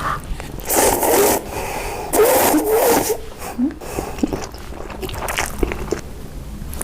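Close-up eating sounds: two noisy bites or crunches with short squeaky, wavering sounds in the second one, then scattered small clicks and smacks of chewing.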